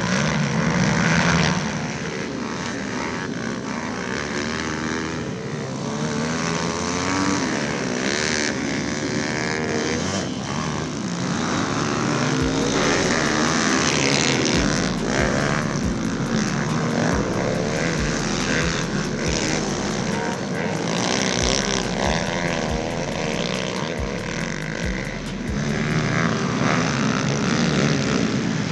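Several small pit bike engines running hard and revving up and down, their overlapping pitches rising and falling.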